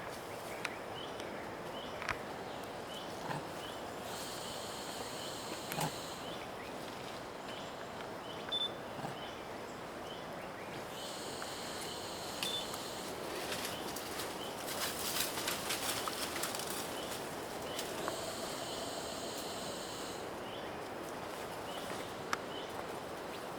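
Forest ambience dominated by a high, steady insect drone that switches on and off in stretches of several seconds, with scattered clicks and ticks.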